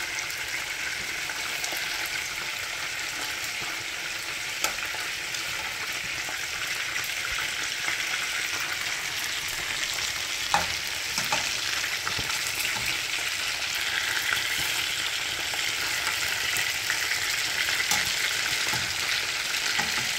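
Chicken drumsticks sizzling steadily in hot oil in a nonstick frying pan, with a couple of sharp clicks as the slotted spatula knocks the pan while turning them. The sizzle grows a little louder in the second half.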